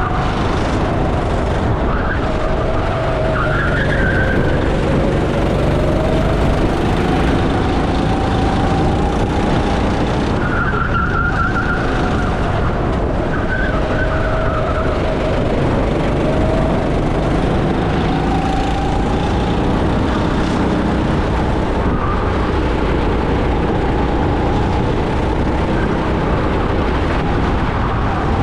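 Racing go-kart engine at full race pace, heard from onboard, its pitch rising on the straights and falling into the corners several times, over a heavy rushing noise. A few brief high squeals come and go, about 4, 11 and 13 seconds in.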